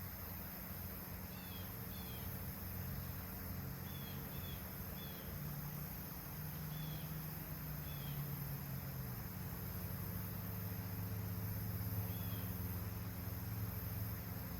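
Outdoor ambience: a steady high insect drone under a low rumble, with a bird giving short chirps scattered every second or so through the first half and once more near the end.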